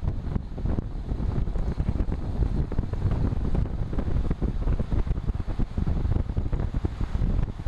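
Wind buffeting the microphone of a camera carried on a moving road bike: a constant, rapidly fluttering rumble.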